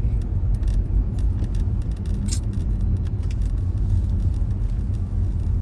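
Steady low rumble of a car's engine and road noise heard inside the cabin, with a few faint ticks and a brief hiss a little over two seconds in.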